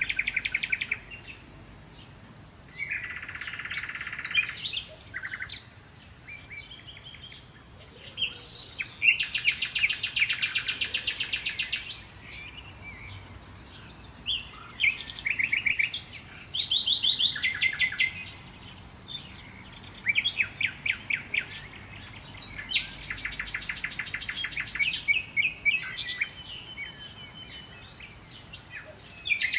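Songbirds singing in short bursts of chirps and rapid trills, with two longer, louder buzzy trills, one about a third of the way in and one about three-quarters of the way through.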